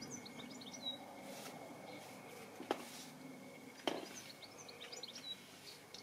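Small birds chirping in quick twittering runs, near the start and again in the second half, with two sharp knocks a little over a second apart in the middle, over a faint steady high tone.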